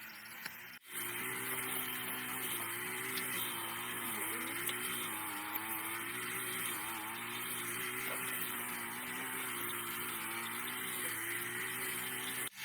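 A vehicle's engine running steadily, its pitch wavering slightly, starting after a brief break in the sound just under a second in.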